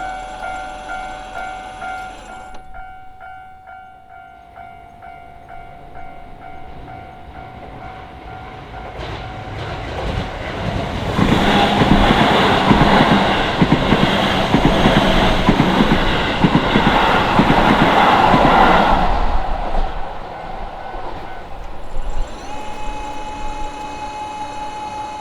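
Japanese level-crossing warning bell ringing in a steady repeating chime, louder for the first couple of seconds, then faint. A Keisei Main Line train passes over the crossing from about ten to twenty seconds in, its wheels clacking rhythmically over the rail joints. Near the end the crossing bell's tone rises again.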